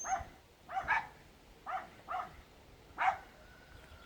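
A dog barking repeatedly: about six short barks, mostly in pairs, the last a little after three seconds in.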